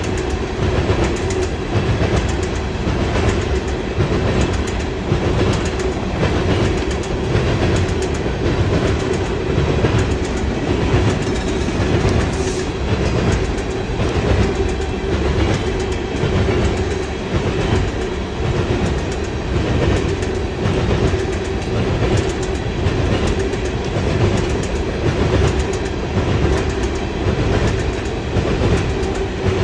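Freight train cars rolling past, their wheels clacking in a steady repeating rhythm over the rail joints, with a steady low whine underneath.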